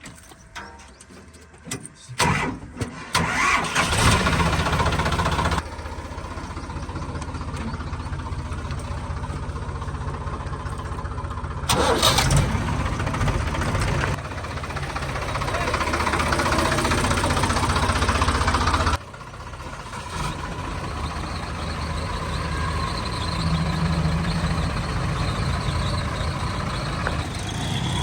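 A heavy vehicle's diesel engine starts about two seconds in and then runs with a steady low note. The sound jumps and drops abruptly several times.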